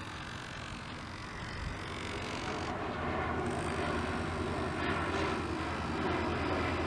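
A small RC longtail boat running, its tiny servo motor driving the long-tail propeller with a steady hum that grows louder about two to three seconds in.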